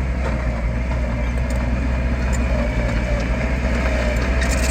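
Heavy construction machine's diesel engine running steadily with a low, even drone and a faint wavering whine above it.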